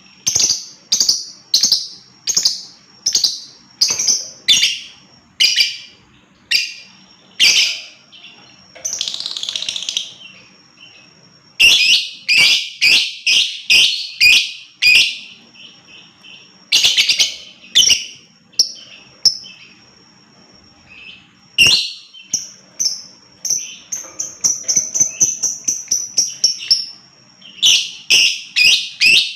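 Lovebird calling: a string of sharp, high chirps at about two a second, breaking into quick rapid runs of calls about twelve seconds in and again near the end, with a steady high whistling note just before the last run.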